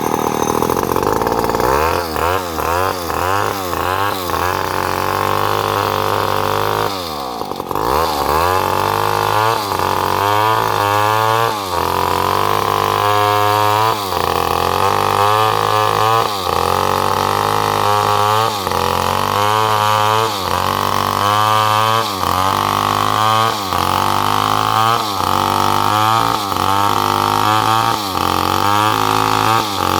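Chainsaw running at high revs while cutting salam wood, its engine pitch rising and falling over and over as the chain bites into the wood. About seven seconds in it drops briefly toward idle, then revs back up.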